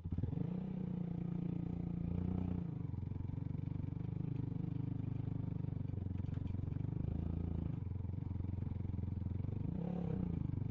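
Motorcycle engine running at low revs, its pitch rising and falling repeatedly as the throttle is worked.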